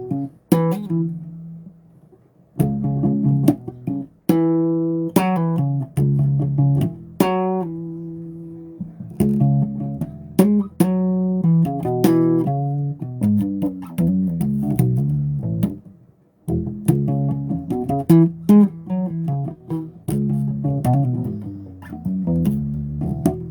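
Bass guitar played solo: plucked notes and short melodic phrases, each note ringing and dying away, with brief pauses between phrases about two seconds and sixteen seconds in.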